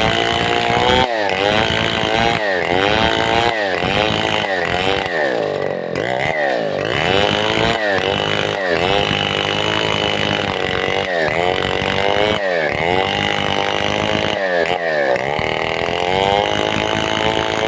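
New West 707 (Stihl 070 clone) two-stroke chainsaw running hard, most likely ripping a log into planks. Its pitch dips sharply and recovers about once a second as the chain loads and frees.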